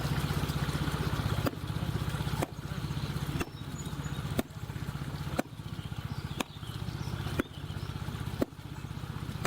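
A small engine running steadily with a low, even pulse, and a sharp click about once a second.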